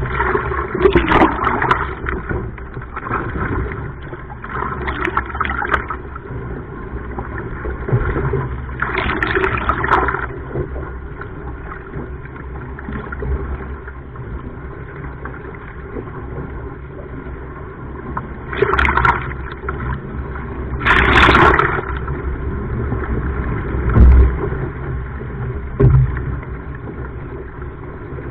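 Sea water splashing and sloshing around a surfski and its paddler, over a steady low rumble of wind and water on the microphone. Several louder splashes come in bursts of about a second, and two short knocks sound near the end.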